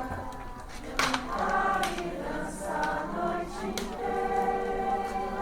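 A group of voices singing together in chorus, holding long notes, with a few sharp clicks along the way.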